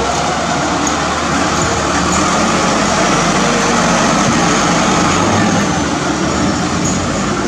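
Hino truck's diesel engine running steadily, its pitch rising slightly and falling back through the middle.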